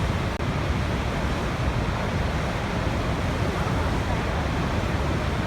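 Waterfall's steady rush of falling water, an unbroken roar heaviest in the low end.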